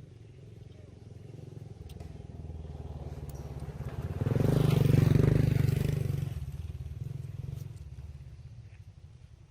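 A motor vehicle passing by: its engine hum grows louder, peaks about halfway through, then fades away.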